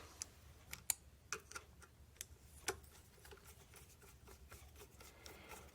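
Faint, scattered light clicks and taps from small hardware being handled, a few sharp ones in the first three seconds and then only faint ticks.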